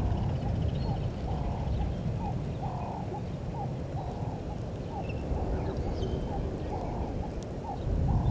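A bird calling over and over in a low voice, about two calls a second, some clipped and some drawn out, over a steady low rumble.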